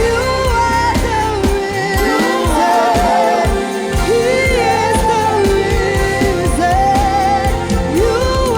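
Live gospel praise and worship music: a lead singer with a band, bass and drums keeping a steady beat. The bass and drums drop out for a couple of seconds about two seconds in, then come back in under the voice.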